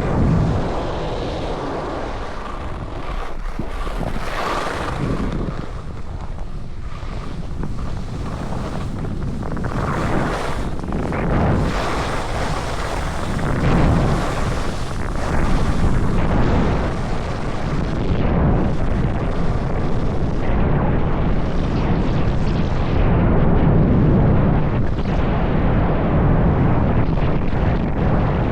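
Strong wind buffeting the microphone: a continuous low rush that swells in gusts and grows a little louder in the second half.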